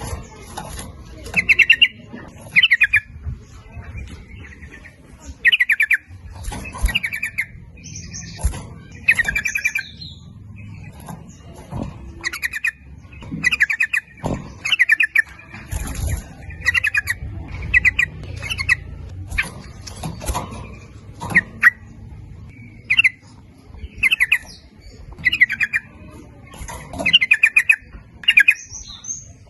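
Yellow-vented bulbul (trucukan) song: short, bubbling, chattering phrases repeated over and over, about one every second or so.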